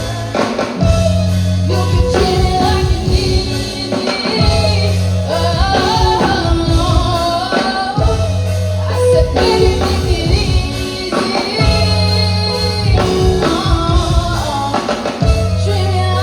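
Live band playing a rock song with a singer's voice over drums, guitar and a bass line that repeats every few seconds.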